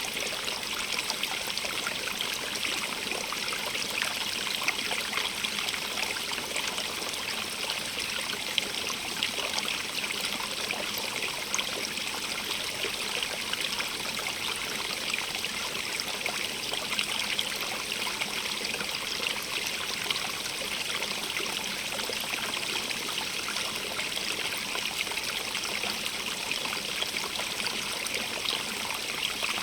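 Stream of running water flowing and trickling steadily, a constant splashing hiss full of small fine splashes.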